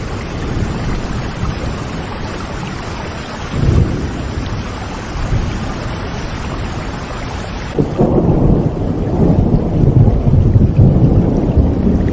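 Steady heavy rain with rolling thunder. A low rumble swells a little under four seconds in, and at about eight seconds the rain's hiss drops away suddenly as a louder, longer thunder rumble takes over.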